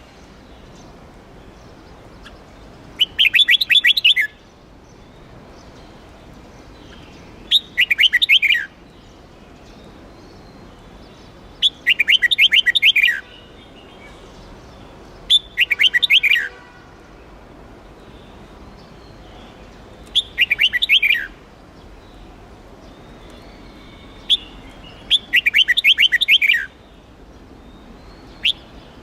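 Red-whiskered bulbul singing in short, bright phrases of rapid notes, each about a second long and falling in pitch at the end, repeated roughly every four seconds.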